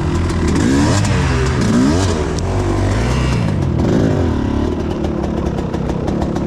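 Enduro motorcycle engine revving up and down several times under load as it is ridden off-road, with some clatter.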